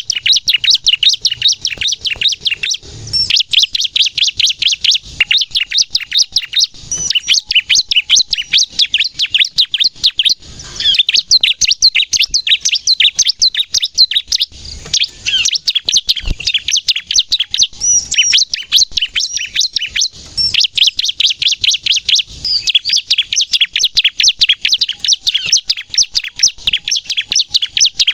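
Bar-winged prinia (ciblek) in full, vigorous song: a fast, nearly unbroken run of high, sharp chirping notes, many per second. It breaks off briefly a few times.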